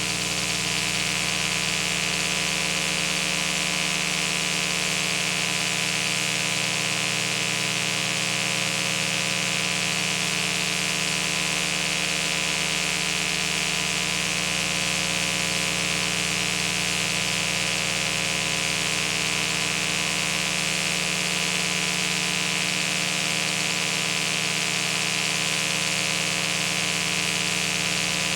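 A steady machine hum made of several fixed tones, under a constant hiss. It does not change in level or pitch.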